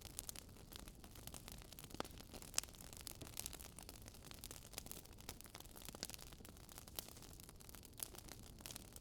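Faint wood fire crackling: a steady low hiss with scattered sharp pops and snaps.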